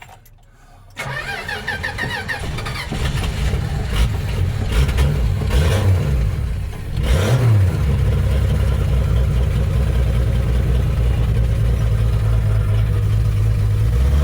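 A 1962 Dodge Lancer's slant-six engine cranks on the starter about a second in and catches, is revved unevenly for several seconds, then settles into a steady idle.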